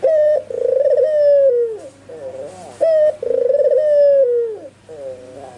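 An albino white ringneck dove (puter putih) cooing: two calls about three seconds apart, each a short clipped note followed by a long rolling coo that slides down at the end.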